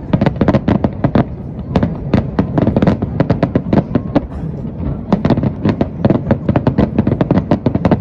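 Fireworks display: a rapid barrage of aerial shell bursts, many sharp cracks and booms a second over a continuous low rumble, easing briefly around the middle before picking up again.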